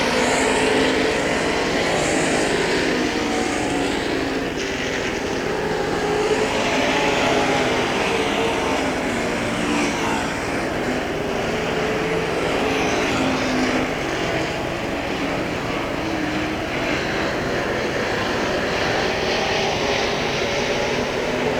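Several Semi Late Model dirt race cars running hot laps, engines droning and overlapping, their pitch rising and falling as they circle the track.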